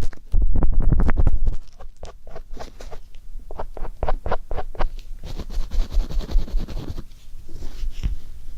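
Ear pick scraping and rubbing close against the microphone. It is loud and rumbling for about the first second and a half, then turns to softer, quick scratchy strokes.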